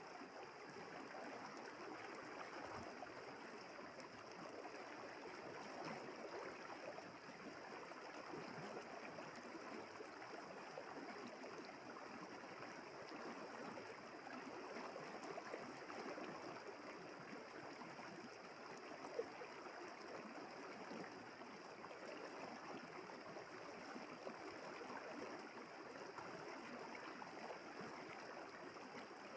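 River water flowing, a steady, even rush with a short, sharp tick about two-thirds of the way through.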